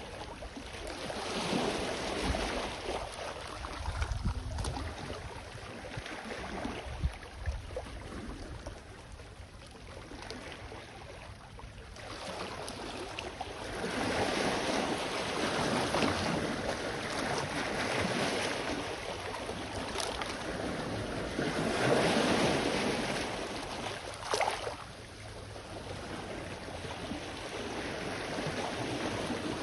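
Sea waves washing onto the shore in slow surges that swell and fade, several over the stretch, with a short sharper wash near the end. Wind now and then rumbles low on the microphone.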